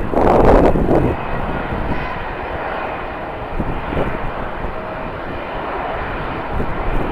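Jet airliner engines running, a steady rush with a faint whine. Wind buffets the microphone during the first second.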